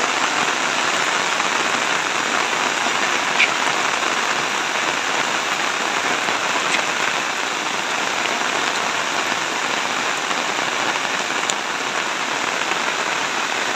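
Heavy rain pouring steadily onto a wet paved yard and shrubs: an even, unbroken hiss of drops, with one small tick about three and a half seconds in.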